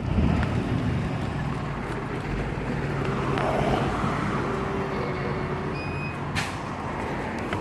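A motor vehicle's engine runs steadily close by, under a continuous hiss of road and wind noise, with a short click about six seconds in.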